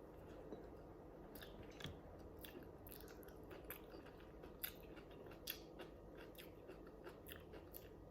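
A person eating: close-miked chewing, with wet mouth clicks and small crunches at an irregular pace, two sharper ones about halfway through.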